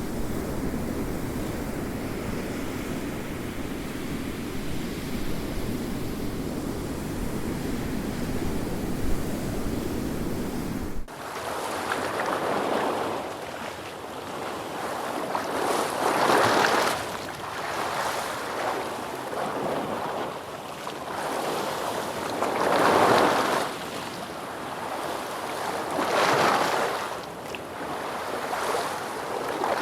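Ocean surf: a steady, low rumbling wash of waves for the first third, then an abrupt change to waves breaking and washing in, each surge swelling and falling back every three to four seconds.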